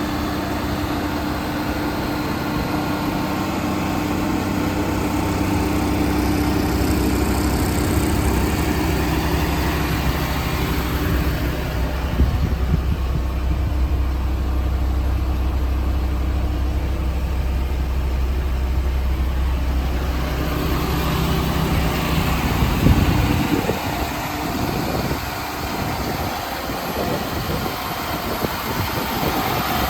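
Ford F-550 crane truck's engine idling steadily. About 23 seconds in, the even engine tone drops away and is replaced by rougher, irregular low rumbling and rustle.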